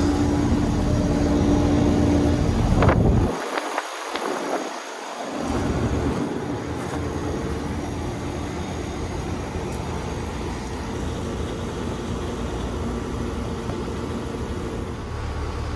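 Central air-conditioner outdoor condensing unit running: a steady fan whoosh and compressor hum. The hum tone drops out about three seconds in, and steady running noise carries on after a short dip in the low end.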